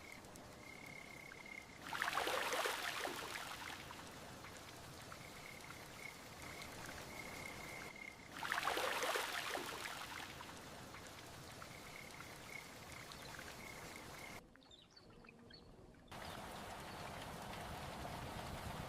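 Steady rainfall ambience with a high, pulsing trill in stretches. The rain swells into two louder rushing surges, about two and eight seconds in. It dips briefly near the end, then carries on with a slightly different tone.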